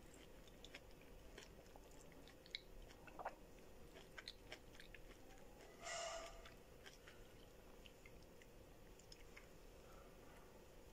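Faint mouth sounds of a person chewing food with her mouth closed: scattered small wet clicks and smacks, with a brief louder rush of breath or noise about six seconds in.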